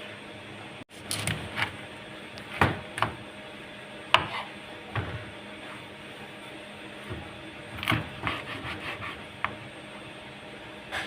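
Knife chopping on a cutting board: irregular knocks and short scrapes, with a quicker run of several cuts near the end, over a faint steady hum.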